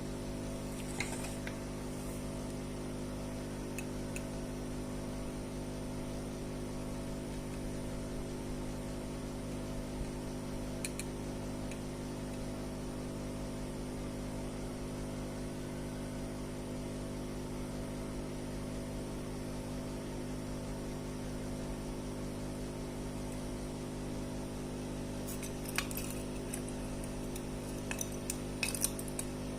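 Steady electrical hum under occasional light clicks and taps of small metal tools and parts handled on a workbench, with a cluster of clicks near the end.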